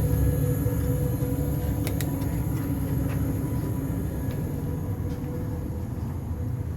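Train running with a steady low rumble and a constant hum, slowly getting quieter, with a couple of sharp clicks about two seconds in.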